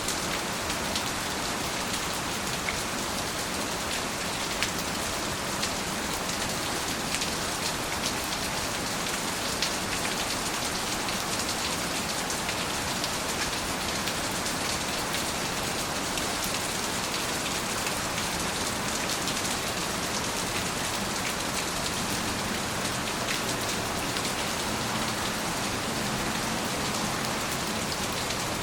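Steady rain falling, with a dense even hiss and the occasional distinct drop ticking on a surface.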